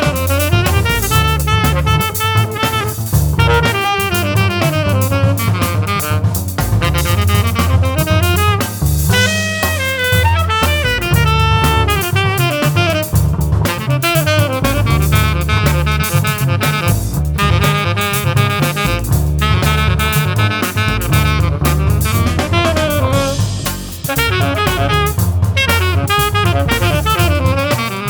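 Jazz: a saxophone playing quick, running melodic lines over a drum kit.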